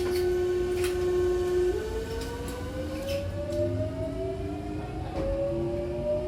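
Electric train's traction motor and inverter whine as it pulls away: a steady tone that jumps up in pitch about two seconds in, after which several tones rise together as the train gathers speed, over a low running rumble with a few clicks.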